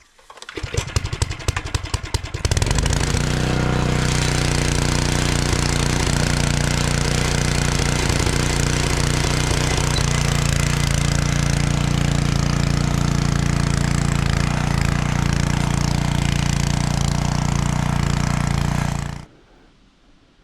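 Small petrol engine cranked over with a rapid clatter, catching after about two seconds and then running steadily, its note shifting slightly a couple of times, before stopping abruptly near the end.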